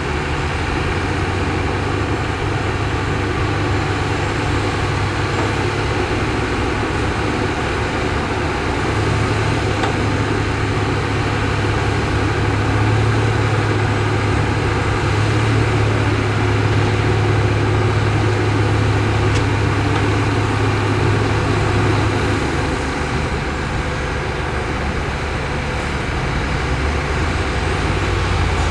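Heavy diesel engine of earthmoving machinery running steadily with a deep drone, a little louder and harder-working through the middle stretch.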